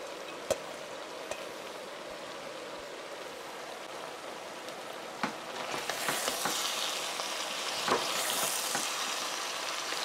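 Vegetables sizzling in sunflower oil in a kazan as diced zucchini is stirred in, with a few sharp knocks of the wooden spatula. The sizzling gets louder and brighter about six seconds in, when the stirring starts.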